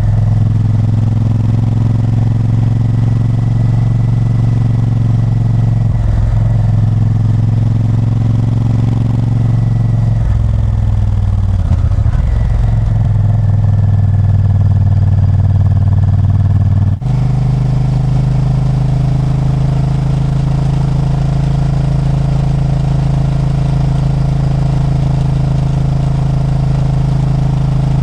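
Honda Varadero 1000's V-twin engine running under way, its note holding steady then shifting in pitch several times, with a brief dip in loudness and a step to a different steady note about 17 seconds in.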